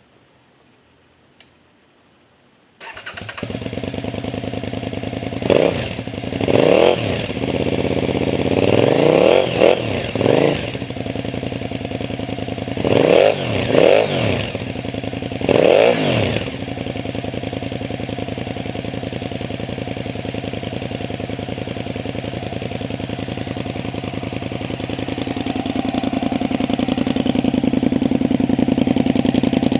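KTM 950 Super Enduro's V-twin engine with a Remus aftermarket exhaust starting up about three seconds in, then revved in about seven short throttle blips before settling into a steady idle that rises slightly near the end.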